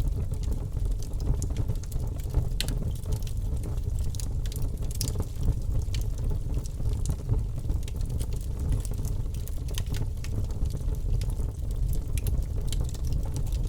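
Wood fire burning steadily, with a low rumble of flame and scattered sharp crackles and pops.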